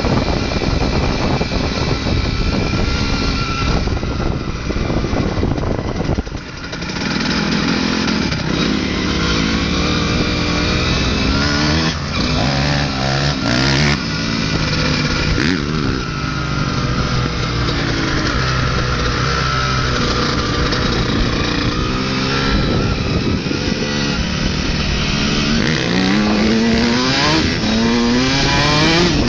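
Motocross dirt bike engines running hard, revs rising and falling repeatedly as they ride, with a run of climbing revs near the end.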